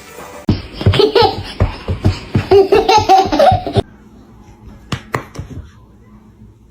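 A person laughing hard in quick, loud bursts for about three seconds, then a quieter stretch with a few faint clicks.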